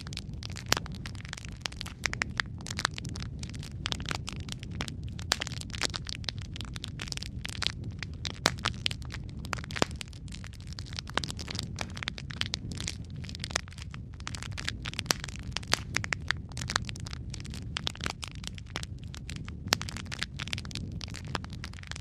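Wood fire in a fireplace crackling, with a steady low rumble of flames and frequent sharp pops and snaps scattered irregularly throughout.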